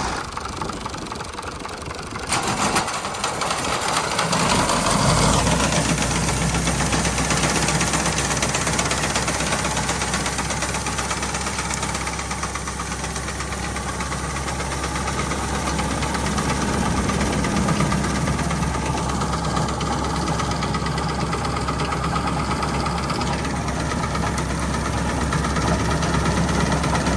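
Al-Ghazi 65 hp tractor's engine running steadily with its reaper machine. About four seconds in it settles into a steady low note that holds throughout.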